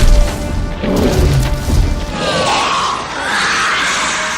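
Soundtrack music mixed with heavy booms for about the first two seconds, then a loud noisy crashing rush that cuts off suddenly at the end.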